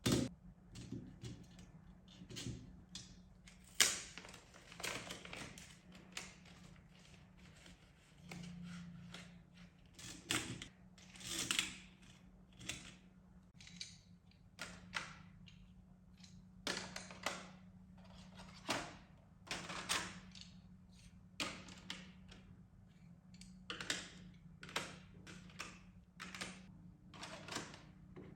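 Irregular knocks, taps and light clatter of household objects being handled and set down, over a steady low hum.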